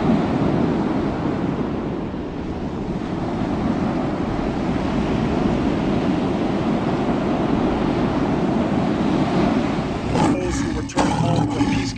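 Steady rush of ocean surf with waves breaking. About ten seconds in it gives way to a lion roaring.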